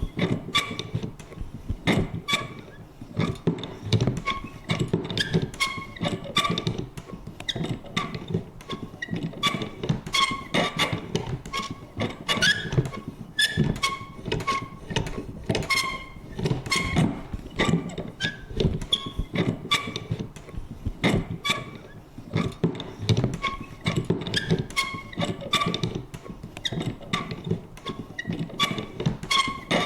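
Vintage paper punch clicking and clunking over and over in a quick, irregular rhythm, with short high creaks and squeaks between the strokes.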